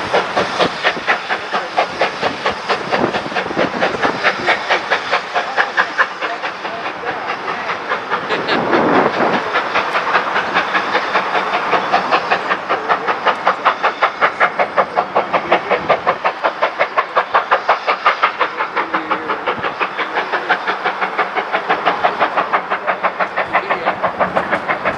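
Two-cylinder 4-6-0 steam locomotive working under steam, its exhaust beating steadily at about three chuffs a second over a hiss of steam.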